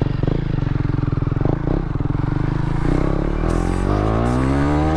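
KTM 390 Duke's single-cylinder engine, first running with an even pulsing beat, then pulling away, its pitch rising steadily from about three seconds in.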